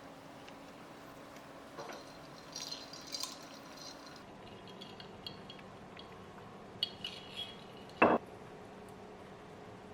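Kitchen dishes and utensils being handled, with light clinks of glass or ceramic now and then and one sharp knock about eight seconds in.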